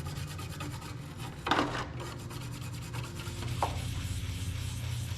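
Rapid rubbing strokes on a saw blade that is being scrubbed clean of grime loosened by a degreaser soak, with a sharp knock about a second and a half in.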